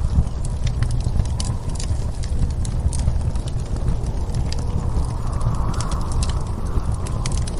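Fireplace crackling, with irregular sharp pops and snaps, over a steady low rumble of snowstorm wind.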